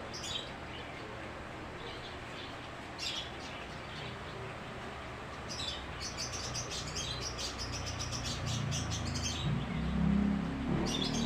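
Small birds chirping: a few single short chirps, then a quick run of rapid chirps, about seven a second, for around three seconds, over a steady hiss. A low drone builds up near the end.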